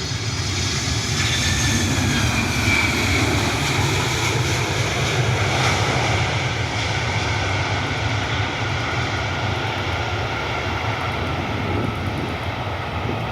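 Delta Boeing 767-400ER's twin GE CF6 turbofans, loud and steady as the jet passes on its arrival. The engines' whine falls in pitch over the first few seconds as it goes by, over a rumble.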